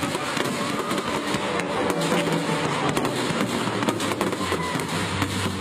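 Fireworks going off in quick succession: dense crackling with many sharp cracks and bangs from ground fountains and crackling stars.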